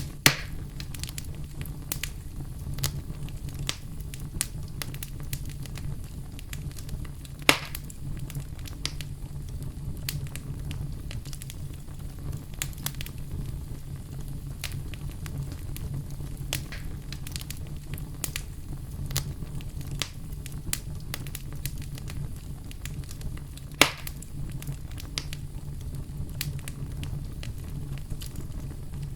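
Campfire burning: a steady low rumble of flames with scattered small crackles throughout. Three sharp, louder pops come just after the start, about a quarter of the way through, and about four-fifths of the way through.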